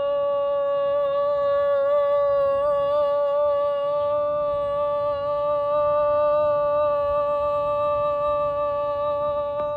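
A woman chanting one long sustained note, her voice held on a single steady pitch with a slight waver.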